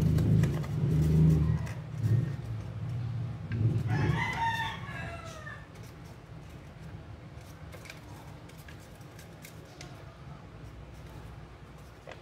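A bird call sounds once, about four seconds in: one drawn-out call with a falling end, lasting under two seconds. It follows a loud low sound in the first two seconds, and faint crinkling of origami paper being folded runs under both.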